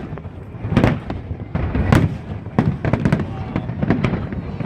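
Aerial fireworks going off in quick succession, with several sharp bangs a second overlapping their echoes.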